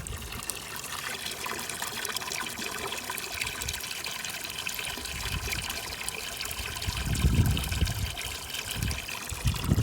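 Steady trickling of running water, with some low rumbling about seven seconds in.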